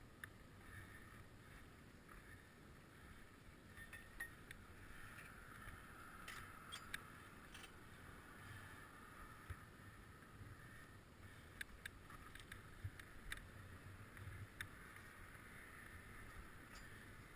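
Near silence: a faint steady background hiss with a few scattered light clicks.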